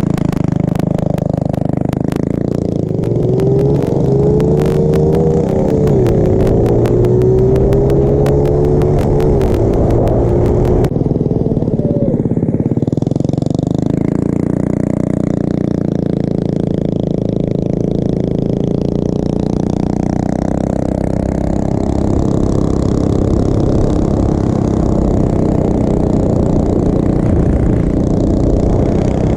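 Small motorbike engine running while riding, its pitch rising and falling with the throttle over the first ten seconds, then steadier. A rapid crackle runs over the engine until about eleven seconds in.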